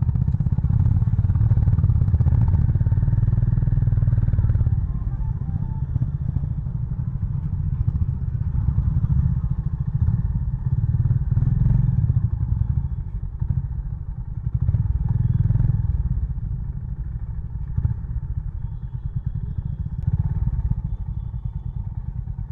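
Honda CB350 Highness's air-cooled single-cylinder engine running at low revs, a steady low rumble that swells and eases several times.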